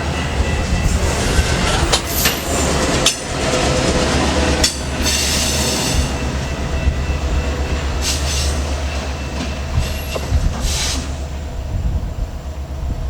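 EMD diesel freight locomotives moving slowly while switching, with a steady low engine rumble. High wheel squeal and hissing come and go several times, with a few clicks from the wheels over the rails.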